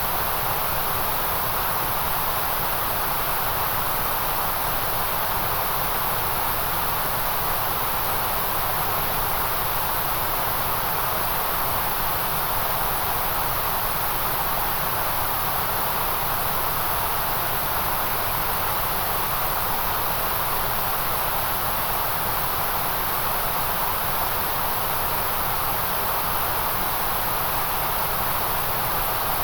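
Steady white noise: an even, unchanging hiss with a bright, sharp top and a fuller band in the middle, with no breaks or events.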